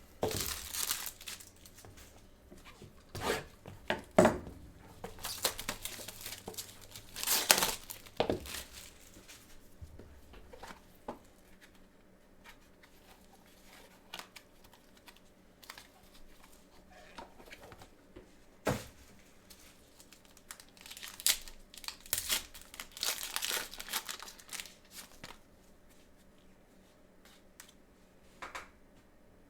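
Packaging of a box of trading cards being torn open and crinkled by hand, in irregular bursts of rustling with a sharp click partway through.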